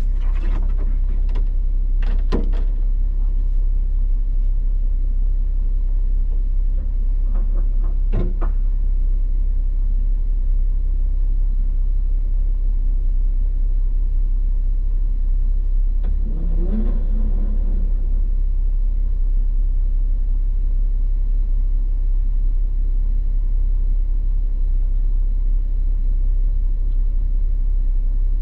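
Steady low rumble of a vehicle driving, heard from inside the cab, with a few sharp knocks in the first couple of seconds and another at about eight seconds. A short wavering tone comes in a little past the middle.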